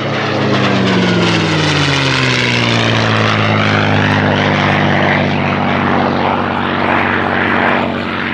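P-51D Mustang passing with its Packard-built Merlin V-12 engine and propeller running: the engine note falls in pitch over the first few seconds as it goes by, then holds steady.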